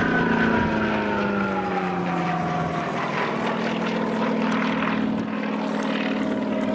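Propeller-driven aircraft flying past, its engine note falling in pitch over the first few seconds as it passes, then holding steady.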